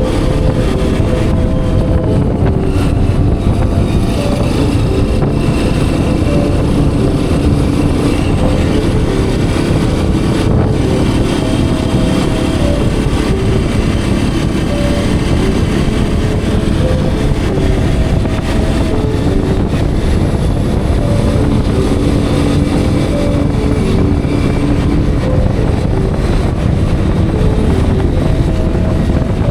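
Hero Xpulse 210's single-cylinder engine running under way, its note stepping up and down every few seconds with throttle and gear changes.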